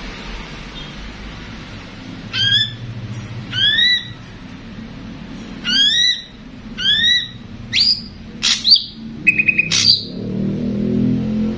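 Ashy drongos calling: a series of about six short upslurred whistled notes, then sharper notes and a quick rattling trill about nine seconds in. A low hum comes up near the end.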